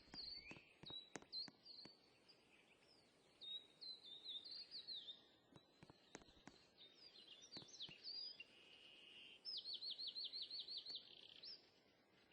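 Faint songbird song: short high chirps and warbled phrases, then near the end a fast, even trill of about ten notes. Scattered light clicks run through it.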